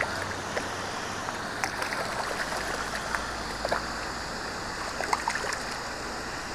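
River water rushing steadily, with a scattering of short faint clicks and ticks over it.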